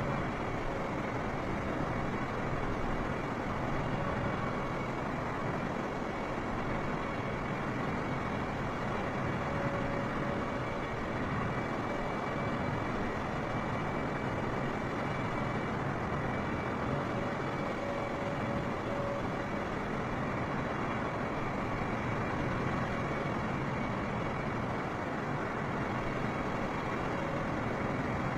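Jet airliner engine and airflow noise heard inside the cabin: a constant rushing noise with faint steady tones in it, unchanging throughout.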